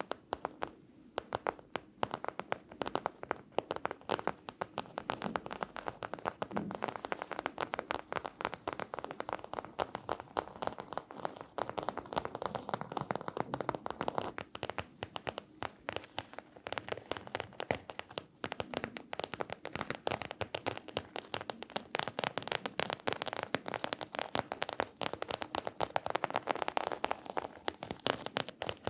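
Fast, continuous tapping and scratching on objects as an ASMR trigger, many sharp taps a second with a scratchy rustle between them.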